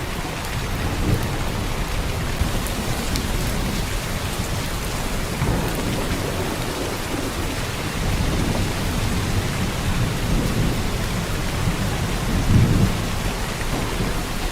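Heavy rain pouring steadily as an even hiss, over a low rumble that swells and is loudest about twelve seconds in.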